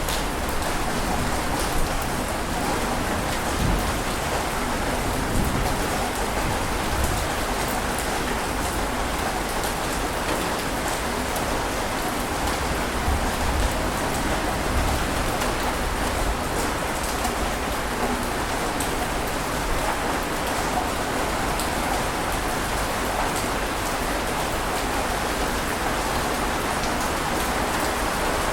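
Steady rushing water noise with no surges or lulls and faint scattered high ticks, like heavy rain or continuous surf.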